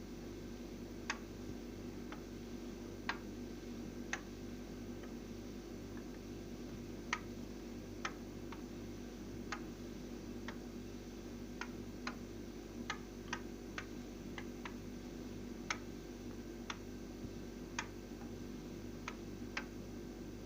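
Beko CNMV 5335EA0 W refrigerator humming steadily while sharp clicks sound at irregular intervals, about one a second. The owner finds this constant clicking and humming loud enough to make sleep impossible.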